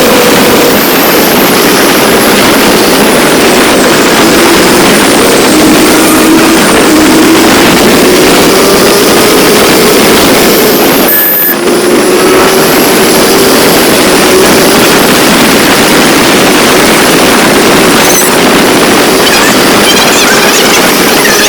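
Motorcycle riding at road speed, with heavy wind noise on the microphone over the engine, whose note slowly rises and falls. There is a brief break about halfway through.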